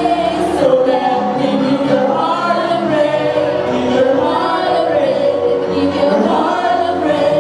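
A group of voices singing together, like a choir, with music.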